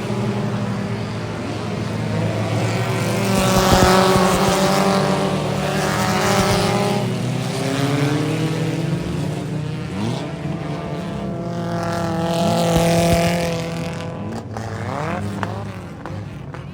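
Race car engines running past on the track, the engine note swelling and then dropping away as cars go by. It is loudest about four seconds in and again around thirteen seconds, then fades toward the end.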